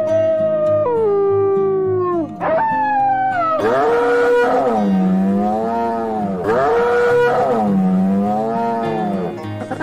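A wolf howling on a long held note that steps down and falls away about two seconds in, followed by a short rising-and-falling howl. Then a cow moos twice, each moo long and drawn out, over background music with a low steady pulse.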